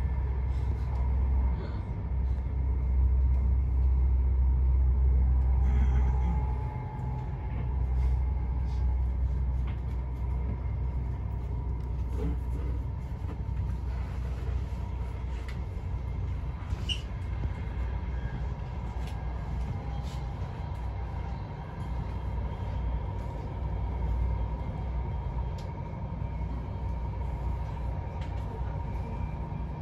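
Passenger express train running at speed, heard from inside the carriage: a steady low rumble with a faint steady high tone over it, louder for the first six or seven seconds and then easing a little.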